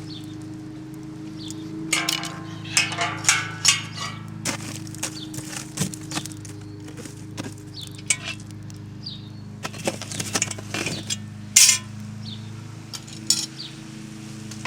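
Metal clinking and rattling as the hanging Dutch oven is lowered into the hot coals: a run of sharp clinks and knocks, some ringing briefly, in two clusters, the first about two seconds in and the second near ten seconds.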